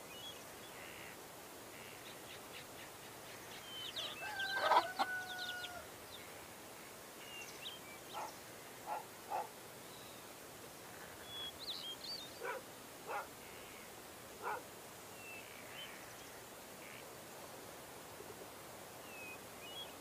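Wild birds calling: scattered short, high chirps, a louder call about five seconds in, and several short sharp ticks later on.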